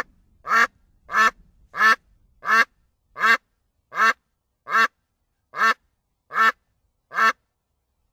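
Duck quacking: a steady series of about eleven short, loud quacks, each a little under a second apart.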